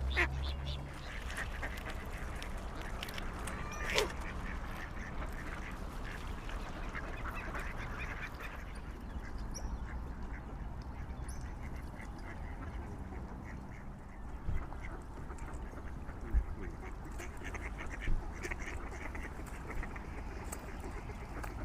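Waterfowl on a lake calling in short, scattered calls, the loudest about four seconds in, over a steady low background. A few short dull thumps come later on.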